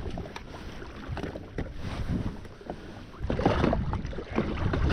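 Wind buffeting the microphone over water noise, growing louder about three seconds in.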